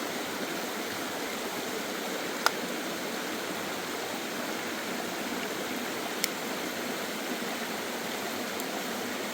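Steady rushing of a flowing stream. Two sharp clicks, the first about two and a half seconds in and louder, the second about six seconds in.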